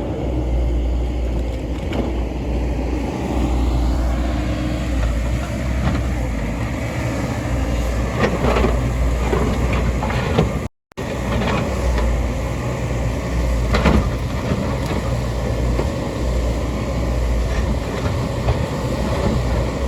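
Heavy diesel machine engine running steadily with a low rumble, with a few sharp knocks in the middle; the sound cuts out for an instant about halfway through.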